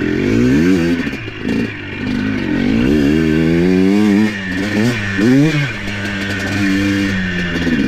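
ATV engine being throttled on and off, its pitch climbing and dropping several times as it works over rough ground, then holding steadier near the end.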